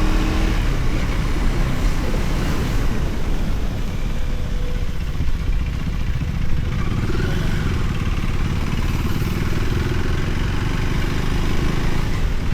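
Motorcycle running on the road while being ridden, a steady low rumble with no clear change in engine speed.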